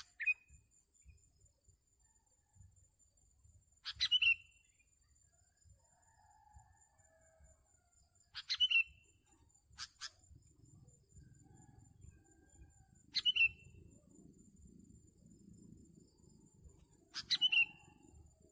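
Sooty-headed bulbul calls: short bright phrases repeating about every four seconds, four times, with one sharp single note in between.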